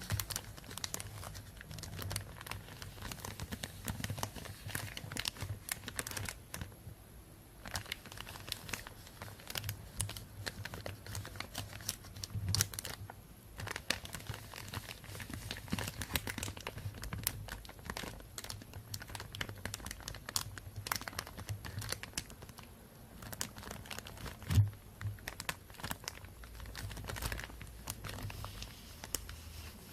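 Plastic bag being crinkled and rustled close to the microphone: a steady run of irregular crackles, with one louder knock about 24 seconds in.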